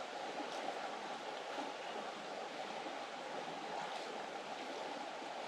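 Steady rush of a rainforest creek flowing.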